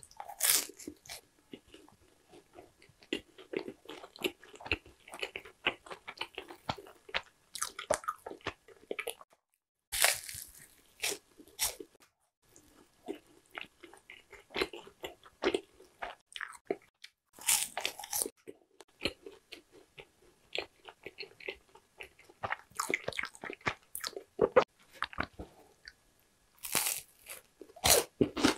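Crisp Korean sweets being bitten and chewed close to a clip-on microphone: yugwa (puffed glutinous-rice crackers), then an oranda puffed-grain bar near the end. Loud crunching bites come about half a second in, around ten seconds, around eighteen seconds and again near the end, with quieter crackly chewing in between.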